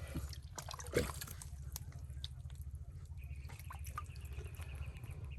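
Wet mud and water on a tidal mudflat: scattered small drips, clicks and wet pops, with one louder pop about a second in, over a steady low rumble.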